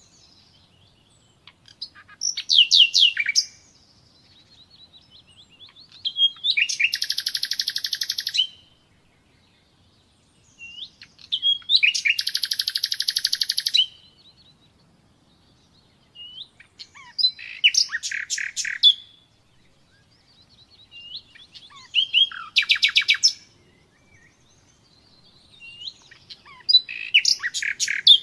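Common nightingale singing: about six phrases a few seconds apart, each a high burst of fast repeated notes or a run of rising whistles, with short pauses between.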